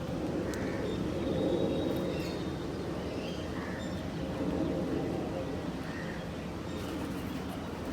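Outdoor ambience: a steady low background rumble with a few faint, short bird chirps scattered through it.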